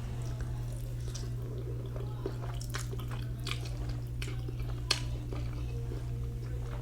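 Close-miked mouth sounds of a person eating: wet chewing with a few sharp smacks or clicks scattered through, over a steady low hum.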